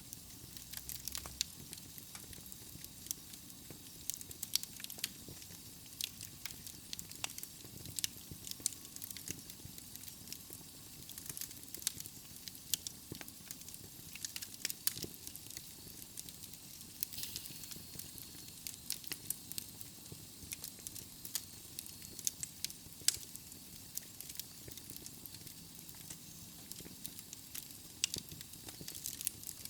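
Wood fire burning in a fireplace: steady hiss with frequent sharp, irregular crackles and pops from the burning logs.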